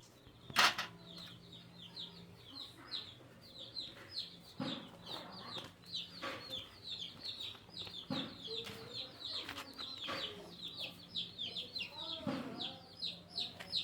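Chickens with many rapid, short, high peeping chirps, typical of chicks, running on throughout. A sharp knock sounds about half a second in, and a few softer knocks follow later.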